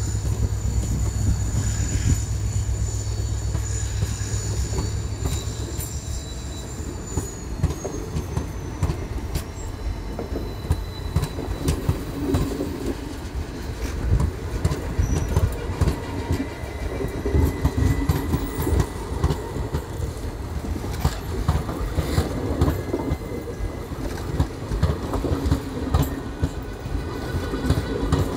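Passenger coaches rolling past at speed behind an accelerating diesel locomotive, their wheels knocking over rail joints in a rapid, irregular clatter that grows louder in the second half. A low rumble fills the first six seconds, and a high whine slides down in pitch and fades out by about ten seconds in.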